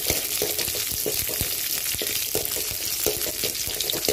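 Garlic, shallots and curry leaves sizzling in hot sesame oil in a metal kadai while being sautéed, with a steel ladle scraping and knocking against the pan about two or three times a second.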